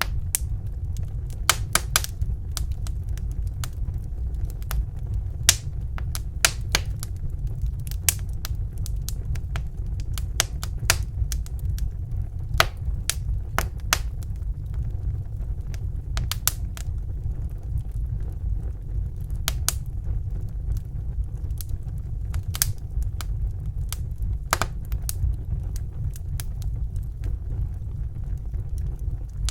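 Fire in a fireplace crackling, with irregular sharp pops over a steady low rumble of the flames.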